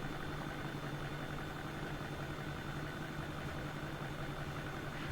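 Steady low background hum with a faint high whine, unchanging throughout, with no clicks or handling sounds.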